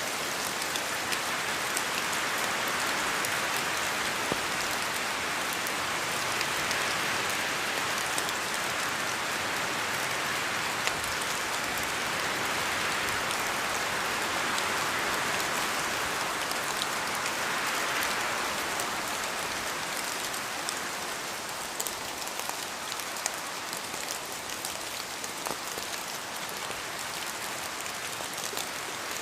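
Steady rain falling in a forest, with many individual drops ticking through a dense, even hiss. It eases slightly about two-thirds of the way through.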